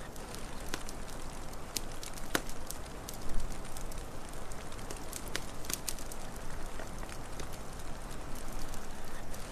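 Wood fire crackling, with irregular sharp pops over a steady hiss, and a low thump about a third of the way in.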